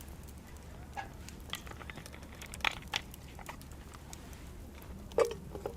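Scattered sharp clicks and light knocks, irregularly spaced, over a low steady hum; the loudest knock comes near the end.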